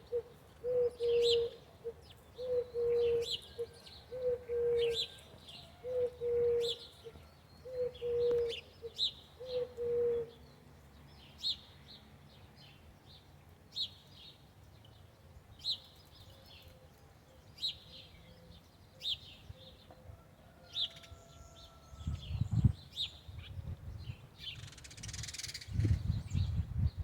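Wild birds calling: a low, steady hooting note repeated about once a second for the first ten seconds or so, over short, high chirps that carry on throughout. A low rumble comes in twice near the end.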